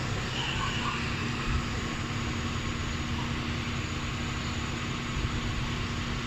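A vehicle running steadily: a continuous low rumble with a constant hum.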